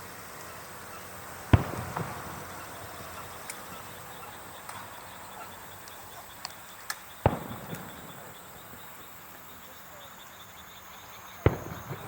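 Fireworks bursting: three loud bangs, about a second and a half in, near the middle and near the end, with several smaller pops and crackles between them.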